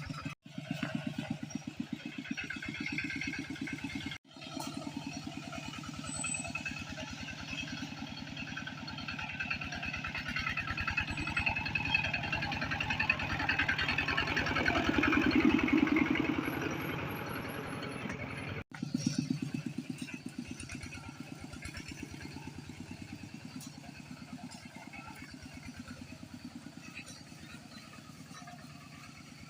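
Small motorcycle engine running steadily while riding, with a rapid even pulse of firing strokes that swells louder for a few seconds in the middle. The sound breaks off abruptly three times.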